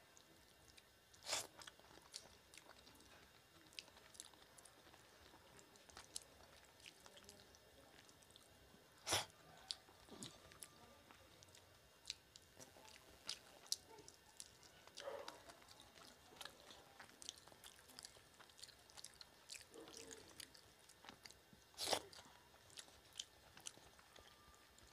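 Faint chewing with wet mouth clicks as rice and curry are eaten by hand, with a few louder clicks scattered through it.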